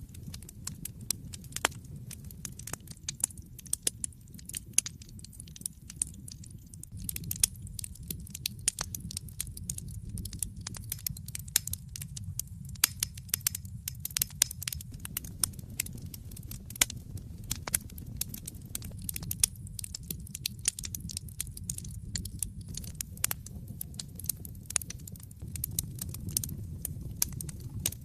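Wood fire burning in an open fireplace, crackling with many irregular pops and snaps over a steady low rumble of the flames; the snapping grows denser partway through.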